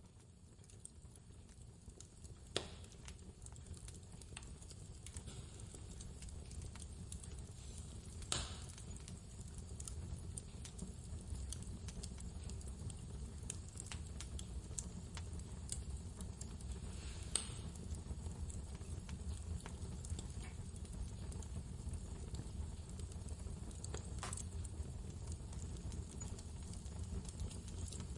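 Wood fire crackling in a fireplace, with many small ticks and a few sharper, louder pops, over the low steady rumble of blizzard wind. The sound swells up over the first several seconds.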